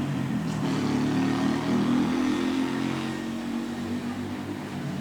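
A motor vehicle's engine running and accelerating, its low pitch shifting up and down, over a haze of traffic noise.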